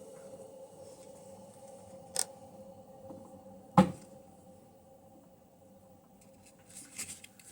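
Two sharp knocks about a second and a half apart, the second louder, over a steady hum, with a few light clicks near the end.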